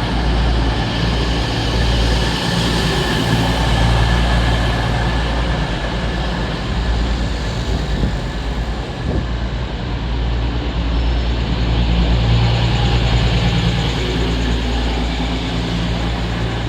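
EMR Class 222 Meridian diesel multiple unit's underfloor diesel engines running with a steady low hum.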